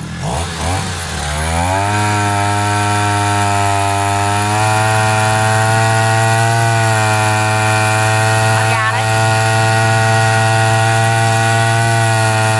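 Small two-stroke brush-cutter engine driving a longtail boat propeller, revved up to full throttle in the first couple of seconds and then running steadily at high revs.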